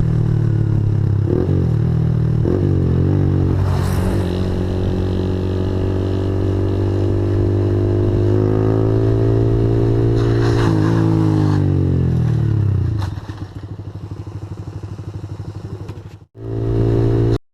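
Honda CG125 motorcycle's single-cylinder four-stroke engine running under throttle, its note rising and falling, with a couple of brief rattles. About thirteen seconds in it drops back to a lower, pulsing idle, and near the end it cuts off abruptly.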